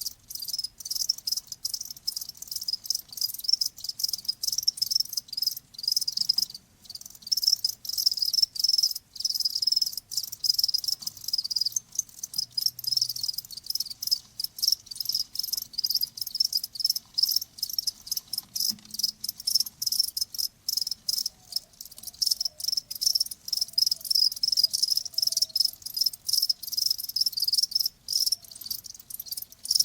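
Crickets chirping, a dense stream of quick high-pitched chirps.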